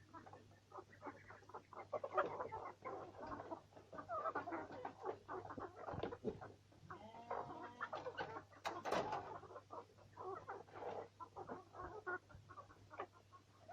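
Domestic chickens clucking over a fast, irregular patter of short clicks, typical of beaks pecking at feed. A louder sharp sound comes about nine seconds in, and a low electrical hum runs underneath.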